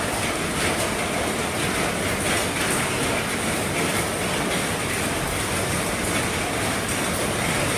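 Heavy rain drumming steadily on the roof of an RV, a dense, even patter of countless drops.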